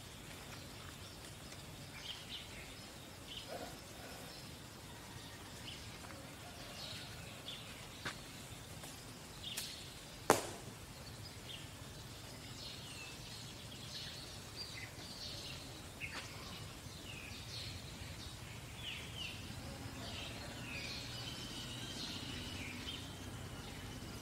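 Many short bird chirps and calls over faint outdoor background noise, with one sharp click about ten seconds in.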